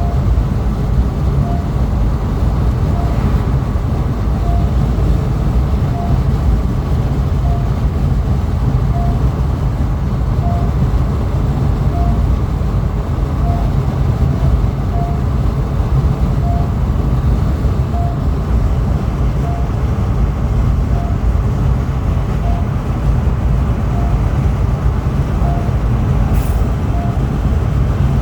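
Steady low rumble of road and engine noise inside a Honda Elevate's cabin at highway speed, with a short high beep repeating about every second and a half: the overspeed warning chime that cars sold in India sound continuously above 120 km/h.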